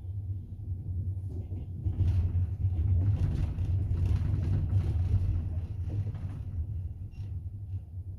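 Double-decker passenger train running, heard from inside the carriage: a steady low rumble, with louder wheel and carriage clatter from about two seconds in until near the end.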